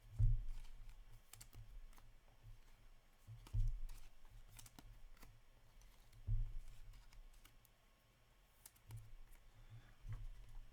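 Hockey trading cards and packs being handled on a table: scattered light clicks with a few soft low thumps, the strongest right at the start and about three and a half and six seconds in.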